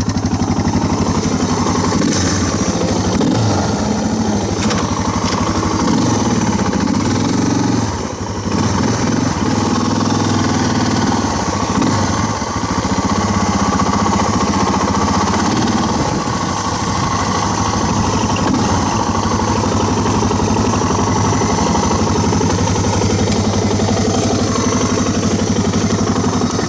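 A single-cylinder dirt-bike engine idling steadily on its first run after winter storage, its pitch wavering a little with small throttle changes early on. It cuts off right at the end.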